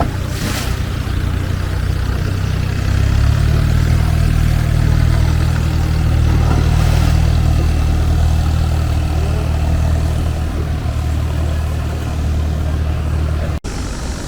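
Longtail boat engine running steadily under way at an even pitch, getting louder about three seconds in, with a steady hiss of wind and water over it.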